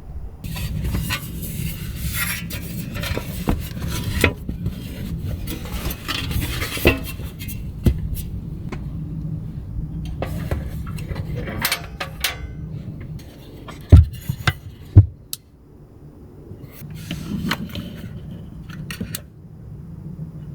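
Objects being handled: scattered clinks, rubbing and rustling over a steady low rumble, with two heavy thumps about a second apart past the middle.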